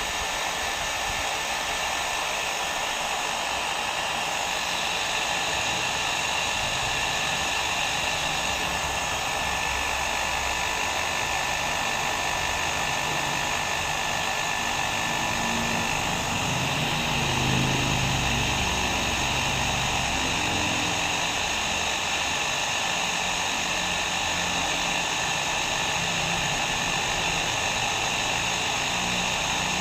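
Hair dryer running steadily: a continuous rushing blow of air with a faint steady whine in it.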